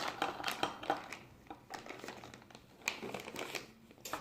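Crinkling and clicking from hands handling things, dense for the first second, then sparser, with a short flurry about three seconds in.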